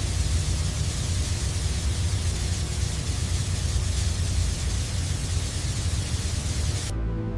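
A steady, loud rushing hiss with a low rumble underneath, cutting off suddenly near the end, after which background music plays.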